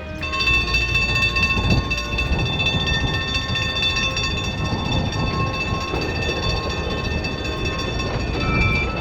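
Electric mountain tramcar running on its rails: a steady low rumble with a set of steady high-pitched whines from its motors and gearing.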